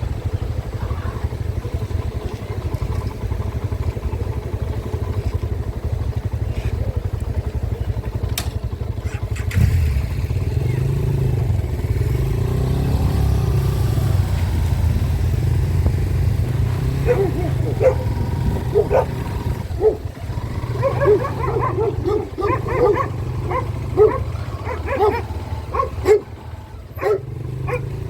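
Low-capacity motorcycle engine running with a steady low rumble that gets louder about ten seconds in. Over the last third a dog barks repeatedly in short, quick calls.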